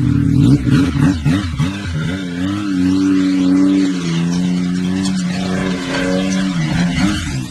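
Yamaha Sidewinder snowmobile's turbocharged three-cylinder engine revving through an aftermarket stainless-steel muffler can: a few quick throttle blips, then held at a steady higher rpm, falling away just before it cuts off.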